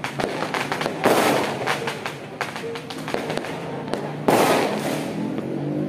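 Fireworks and firecrackers popping and crackling continuously, with two louder bangs about a second in and just after four seconds. Music plays underneath.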